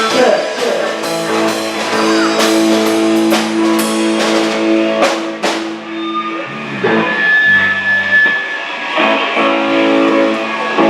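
Live band music: guitar chords and held notes over a drum kit, with a few sharp drum hits about halfway through before the bass line shifts.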